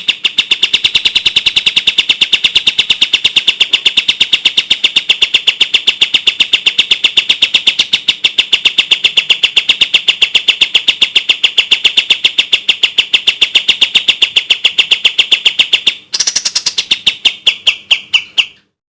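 Kapas tembak songbird giving its rapid-fire song: a fast, tightly spaced string of clear high notes, about nine a second. The song breaks off briefly about 16 seconds in, resumes, and stops shortly before the end.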